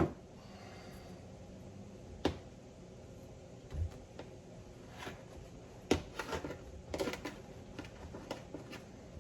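Scattered light clicks and knocks of tools and parts of a Ford steering box being handled during disassembly, with a quick run of clicks about seven seconds in.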